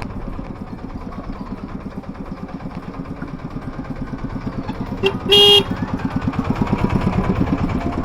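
A small vehicle engine running with a fast, even pulsing beat that grows louder toward the end. A short horn honk sounds about five seconds in.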